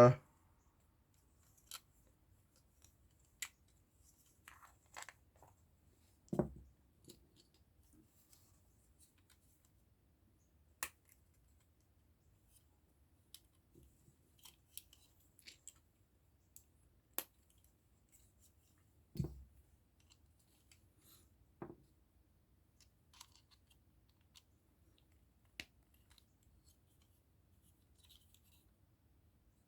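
Scattered small sharp clicks and snaps of hard plastic model-kit parts being handled and fitted, with two louder soft knocks, about six and nineteen seconds in.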